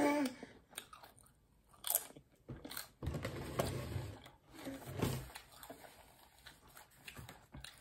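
A person chewing food and biting into it. The loudest stretches come about two seconds in, from three to four seconds, and around five seconds; the chewing is quieter toward the end.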